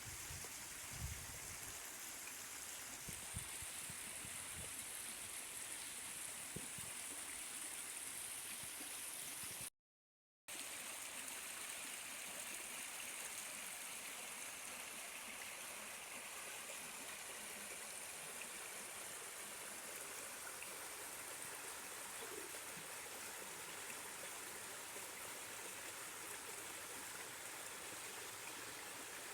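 A stream of water running steadily. It cuts out completely for under a second about ten seconds in.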